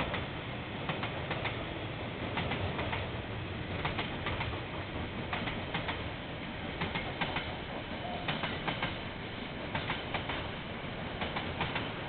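KiwiRail train passing, its wheels clicking over the rail joints in quick pairs several times a second over a steady rumble.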